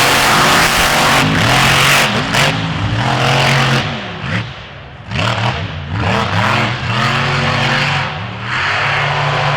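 An off-road vehicle's engine revving hard again and again, its pitch climbing and falling in repeated pulls, easing off briefly about halfway through before revving up again.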